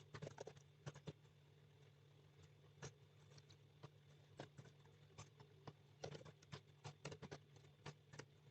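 Faint, irregular clicking of typing on a computer keyboard, in quick bursts of keystrokes with short pauses, over a steady low electrical hum.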